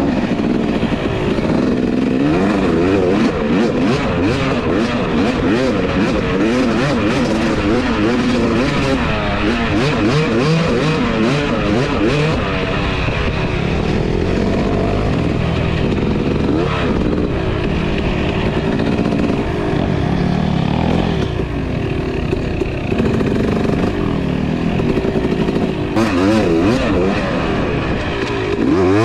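Two-stroke dirt bike engine under way, its pitch rising and falling again and again as the throttle is worked and the gears change.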